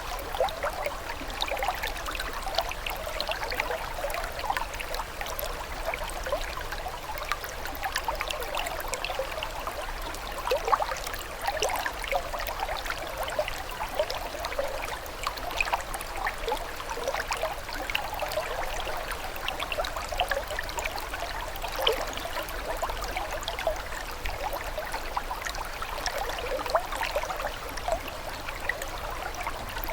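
Flowing water trickling and babbling steadily, a dense, even patter of small splashes and bubbles.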